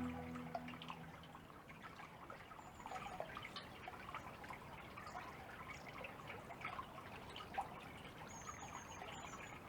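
Faint water trickling and dripping in small, irregular drops and splashes.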